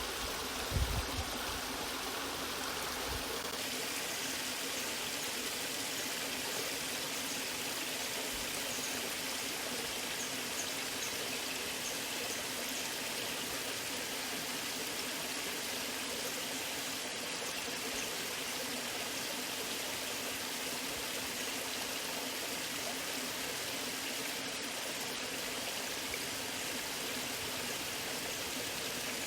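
Waterfall water rushing and splashing steadily, with a few low rumbles in the first second.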